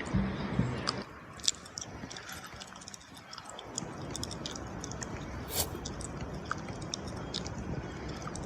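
Wood fire crackling, with scattered sharp pops and snaps over a steady hiss of rain.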